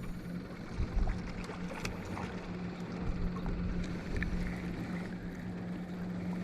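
A boat motor humming steadily at one low pitch, with wind rumbling irregularly on the microphone and a few faint clicks.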